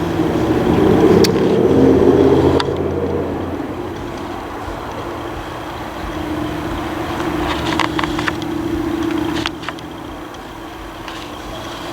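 A motor vehicle engine running steadily with a low hum, louder for the first couple of seconds, with a few sharp clicks.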